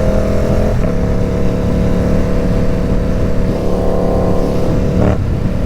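Ducati Supersport 950 S's 937 cc L-twin engine running steadily at cruise through an aftermarket Competition Werkes exhaust, loud. The note breaks briefly about a second in and again near the end.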